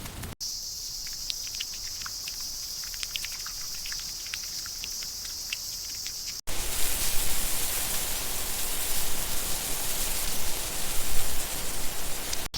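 Insects shrilling steadily, with scattered faint clicks. About six seconds in, a hard cut brings a louder, even rush of noise, like rain.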